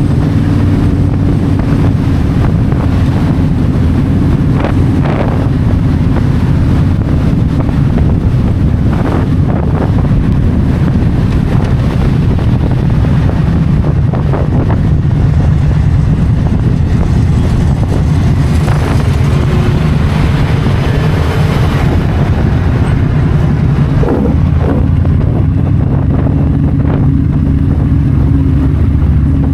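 Yamaha V-Star 1300's V-twin engine running steadily at highway cruising speed, with wind rushing over the microphone.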